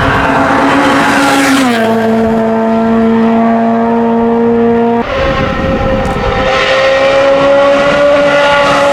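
Hillclimb race car engine running hard at high revs, holding a steady high note. The pitch steps down about two seconds in. A sudden change about five seconds in brings another steady high-rev note that climbs slowly.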